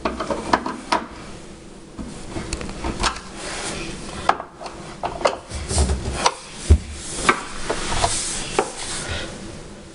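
Wooden cupboard door on repaired European concealed hinges being opened and closed several times, with a string of clicks and knocks and a few heavier thumps as the hinges snap the door shut.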